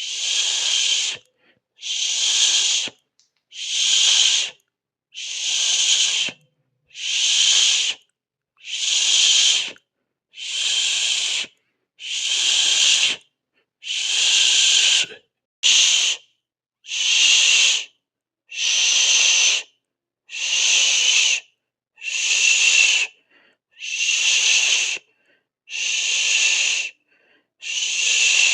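A person hissing 'sss' through the mouth again and again, each hiss about a second long with a short pause between, about one every second and a half.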